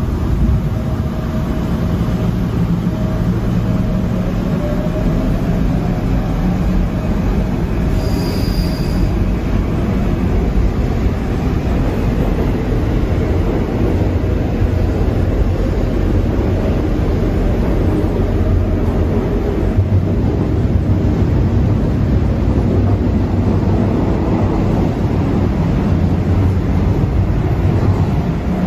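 Subway train running: a steady rumble of wheels and running gear, with a brief high-pitched tone about eight seconds in.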